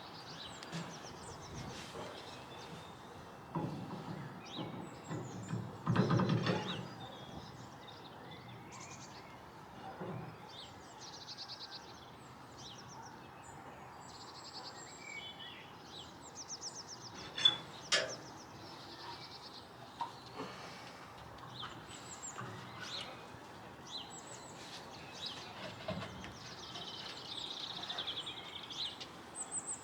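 Outdoor background of small birds chirping and singing, with a few knocks from work: a dull thud about six seconds in and a sharp clank a little past the middle.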